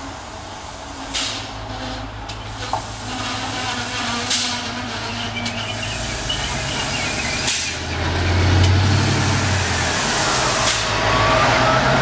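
A Trenitalia Minuetto diesel railcar's engine hums and grows louder as the train approaches and passes close by. Several sharp clicks come from the wheels and track, and there is a faint wavering squeal in the first half.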